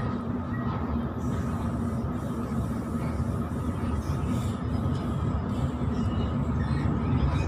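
Steady running noise of a Sydney electric suburban train at speed, heard from inside the carriage: a constant rumble of wheels on rail with a steady hum. It grows a little louder near the end as another train passes close on the next track.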